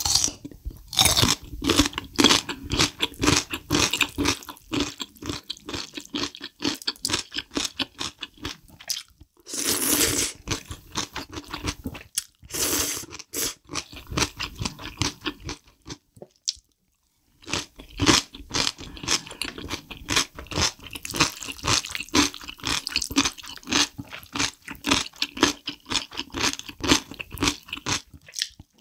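Close-miked eating: rapid crisp crunching and chewing of kimchi with black bean noodles, broken by a few longer slurps and a brief pause about two-thirds of the way through.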